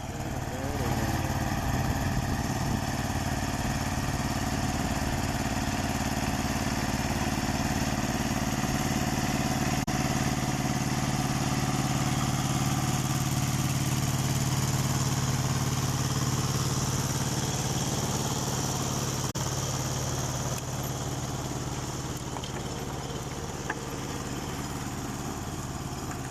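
Ursus C-330 tractor's two-cylinder diesel engine running steadily while driving a rotary tiller through soil. It gets a little quieter about twenty seconds in.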